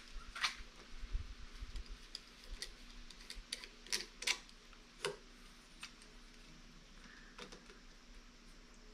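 Scattered light clicks and taps of small hard parts being handled, most of them in the first six seconds and the loudest around four seconds in, over a faint steady hum.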